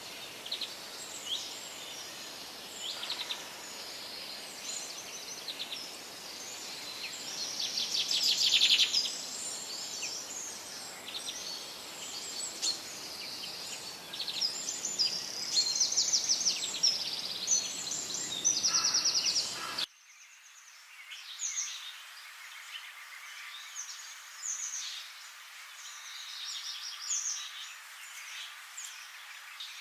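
Several forest birds singing and calling over one another, with quick chirps and rapid trills over a steady background hiss. About two-thirds of the way through, the low background noise cuts off abruptly and the birdsong carries on more quietly.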